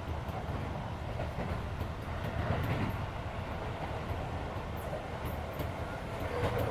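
Running noise inside a Keisei 3400 series electric train car: a steady low rumble of wheels on rail, with the car's air-conditioning running underneath.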